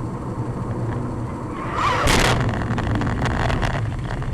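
Steady engine and road noise of a moving car, with a short loud rushing burst about two seconds in.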